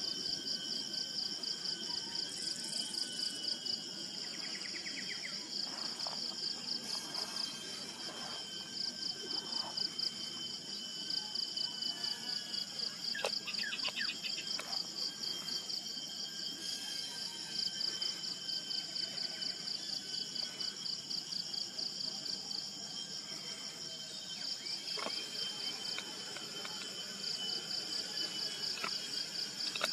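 A chorus of insects trilling steadily in a high, rapidly pulsing tone, with short bird calls now and then.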